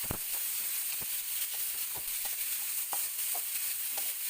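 Garlic, ginger and chopped tomatoes sautéing in a little hot oil in a pan: a steady sizzle, with a faint click about once a second from the utensil stirring.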